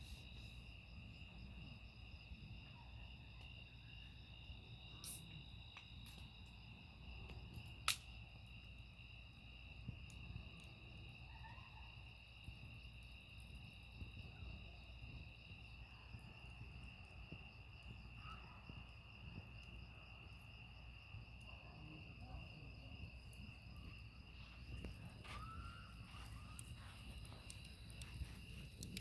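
Faint, steady high-pitched chirring of crickets, with two sharp pops about five and eight seconds in.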